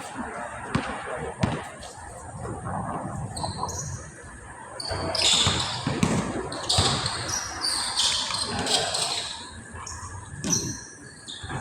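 Basketball bouncing on a court during a pickup game: repeated sharp thuds of the dribble, busier in the middle, with players' voices in the background.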